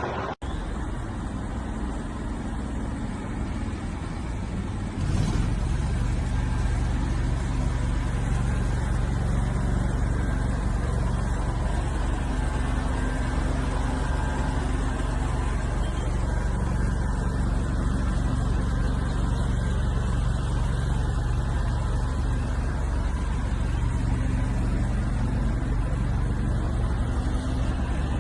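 A car engine running steadily with a low, even drone. It gets louder about five seconds in and then holds level.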